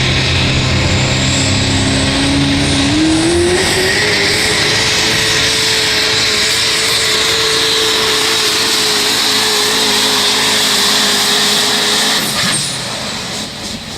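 Competition diesel pulling truck running at full throttle down the track. The engine note climbs in pitch a few seconds in, holds high and steady, then cuts off suddenly near the end as the throttle comes off.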